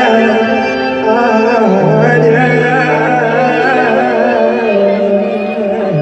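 Live pop song from a band with a singer holding long, wavering notes with vibrato over sustained accompaniment. The bass line steps down to a lower note about two seconds in.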